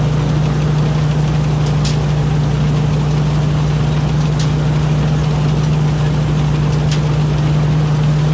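Rice combine harvester's engine running steadily, a constant low drone with a few faint ticks over it.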